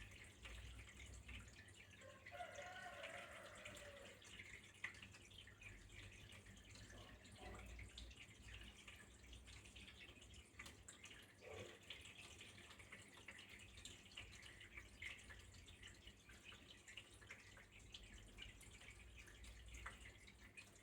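Faint trickling water with many small drips.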